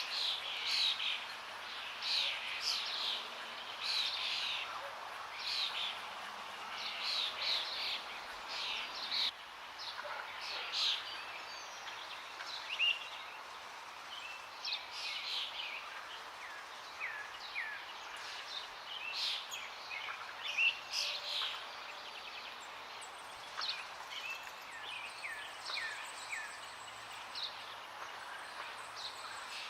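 Forest birds singing and calling, many short chirps and trills in quick succession that thin out after the first third, over a steady rush of running water.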